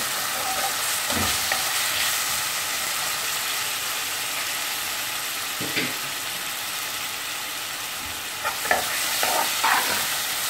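Sliced onions and ginger-garlic paste sizzling steadily in hot oil in a metal kadai, being fried to cook off the paste's raw taste. A metal ladle scrapes and knocks against the pan now and then, several times in quick succession near the end.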